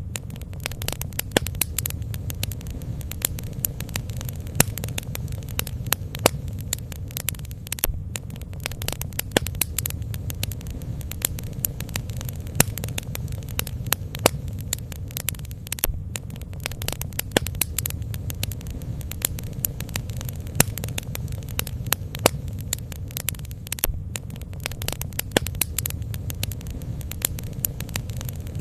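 Bonfire burning, the wood crackling with irregular sharp pops and snaps over a steady low rumble.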